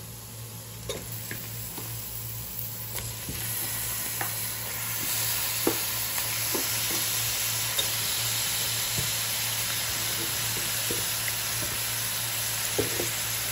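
Raw chicken pieces sizzling as they go into a hot pan of fried onion and spice masala, with a steel spoon stirring and clicking against the pan. The sizzle grows louder about five seconds in.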